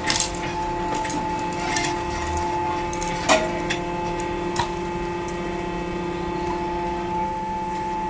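A machine running with a steady, even hum, with sharp knocks and clacks now and then, the loudest about three seconds in.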